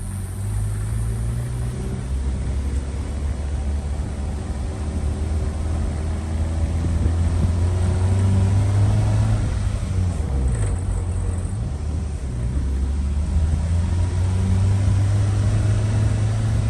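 Car engine and road noise while driving: a steady low drone, with the engine's pitch dipping and rising at a few points as the revs change.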